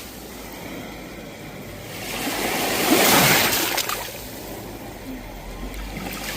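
Sea waves breaking on the shore: one wave builds to a crash about three seconds in and washes back, and the next begins to rise near the end.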